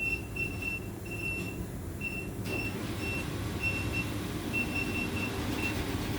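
Short, high electronic beeps repeating at uneven intervals, about two or three a second, over a steady low hum.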